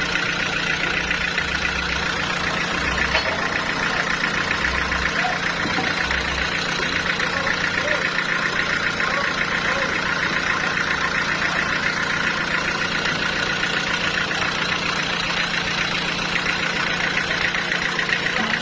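Sawmill machinery running steadily with an even, continuous mechanical noise and a constant low hum.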